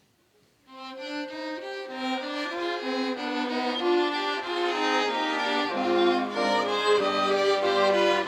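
Violin playing the instrumental introduction to a hymn, a melody of held, stepped notes that starts a little under a second in. About two-thirds of the way through, lower sustained notes join underneath.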